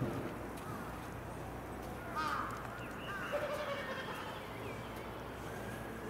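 Birds calling outdoors, a few short harsh calls about two seconds in and again a second later, over a low background murmur of people's voices.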